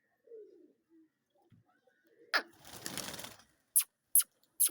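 Domestic pigeons cooing softly. Then a sharp snap and about a second of fluttering rush, like a flock taking off, followed by three quick sharp clicks.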